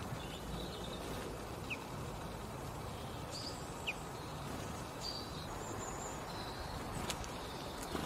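Small garden birds calling: scattered short high chirps, with two sharp single notes about two and four seconds in, over a steady low outdoor rumble.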